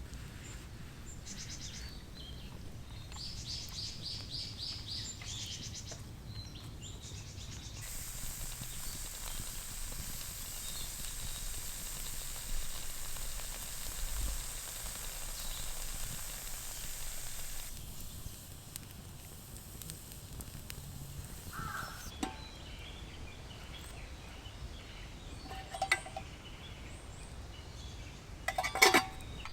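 Outdoor ambience in the woods: a bird gives a quick, rapidly pulsed call a few seconds in, a steady hiss fills the middle stretch, and a few sharp clicks come near the end.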